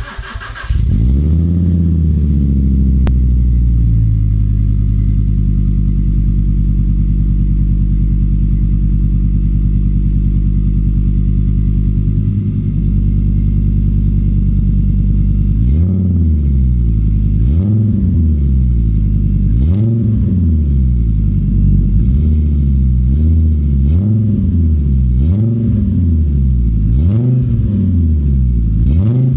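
Fiat Coupé 2.0 20V's naturally aspirated inline five-cylinder engine starting and settling into a steady idle through a straight exhaust. About halfway through it is revved repeatedly in quick blips, roughly one every one and a half to two seconds.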